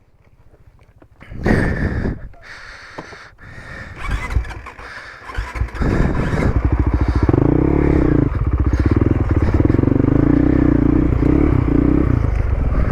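Dual-sport motorcycle engine running close by. It becomes loud and steady about six seconds in, after a few seconds of scraping and clattering.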